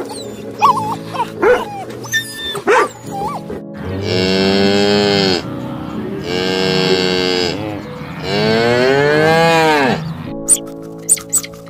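A dog's short yips and whines, then a cow mooing three times in long, loud calls, the last one rising and then falling in pitch. Soft background music plays underneath.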